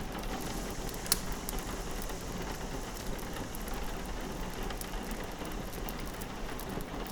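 Steady rain on a window with a wood fire crackling in a fireplace: a constant hiss scattered with small pops, and one sharper pop about a second in.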